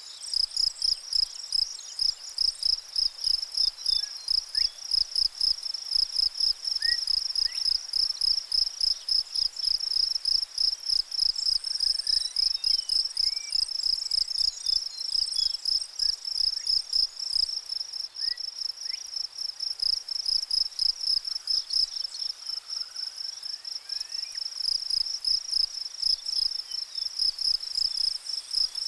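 An insect chirping steadily in a high, even pulse of about three chirps a second, with a few faint short gliding calls in the background.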